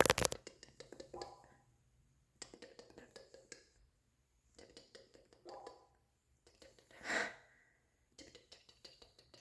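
Close-miked ASMR mouth sounds: short clusters of wet clicks and smacks with silent gaps between them, a loud burst right at the start, and a breathy exhale about seven seconds in.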